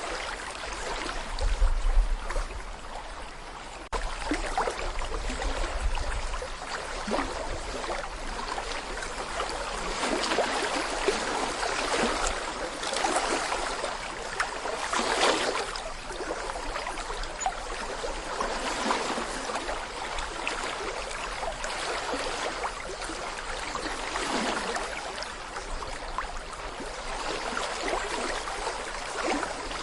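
Small brook babbling and gurgling over stones: a steady rush of water that swells and eases every few seconds. A low rumble lies under it for the first several seconds.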